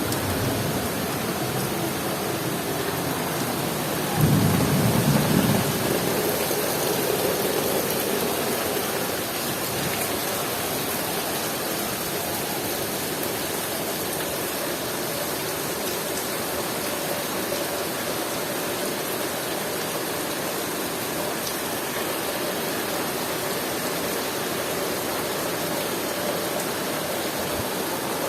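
Heavy rain pouring steadily. About four seconds in, a loud thunderclap breaks out and rumbles for a couple of seconds before fading back under the rain.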